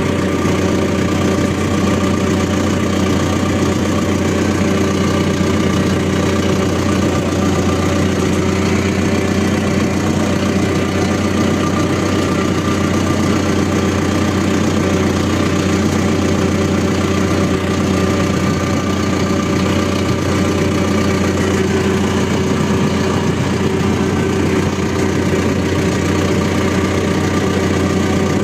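ACE 550 DI tractor's diesel engine running steadily at a constant speed, with no revving.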